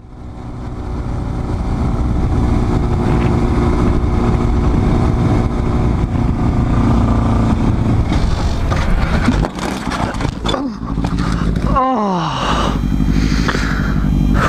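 Motorcycle engine running at speed under steady wind rush. About twelve seconds in, the engine note drops sharply as the revs fall.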